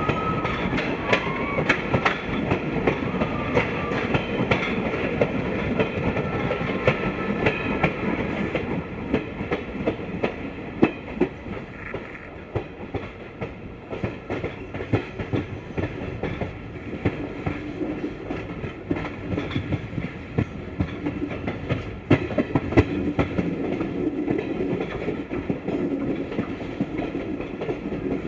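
Broad-gauge express train coaches rolling slowly, their wheels clicking irregularly over the rail joints in a clickety-clack over a steady rumble, with a thin wavering wheel squeal in the first few seconds.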